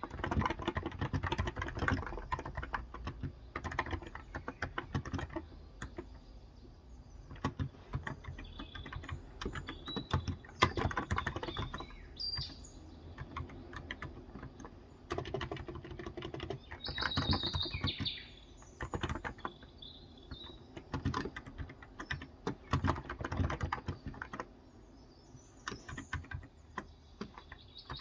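Typing on a Cox Endeavor electro-capacitive 35 g tenkeyless keyboard: runs of rapid keystrokes broken by short pauses. Birds chirp now and then in the background.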